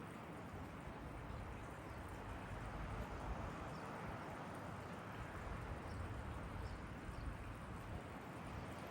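Faint steady outdoor background rumble and hiss, growing slowly a little louder, with a few faint high chirps a little past the middle.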